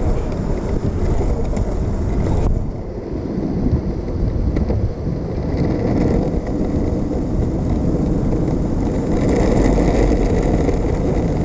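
Longboard skateboard's urethane wheels rolling steadily over pavement while cruising, with wind buffeting the microphone.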